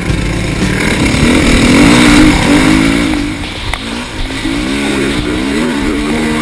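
Dirt bike engine under hard acceleration, the revs climbing and dropping again with each gear change. It is loudest about two seconds in.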